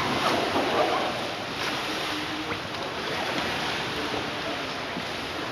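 Water splashing and sloshing around a canoe, loudest in about the first second.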